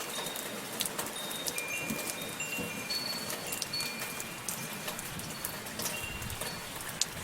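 Steady soft rain pattering, with metal wind chimes ringing now and then in short, high, bell-like notes.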